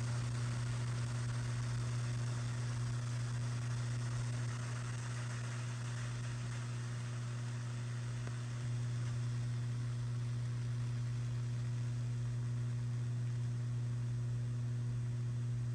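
KRK Rokit 5 G2 studio monitors giving off a steady low hum with a hiss over it, with no signal cables attached. The noise dips slightly for a few seconds in the middle. The owner guesses it is a faulty capacitor; it shows up when the speakers are started after a long rest.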